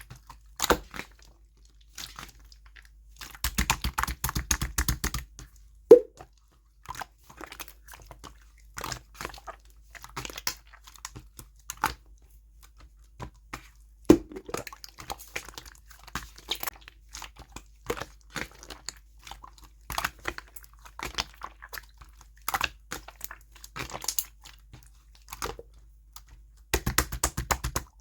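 Clear slime being pressed and poked by hand, giving wet clicks and air-bubble pops, with quick runs of clicks in places and a few louder single pops.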